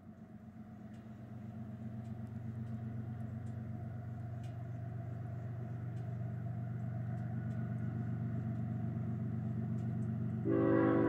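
Approaching diesel-electric freight locomotives, a steady low engine drone growing louder as the train nears. Near the end the locomotive's multi-tone air horn starts blowing, a sustained chord, sounded for the grade crossing ahead.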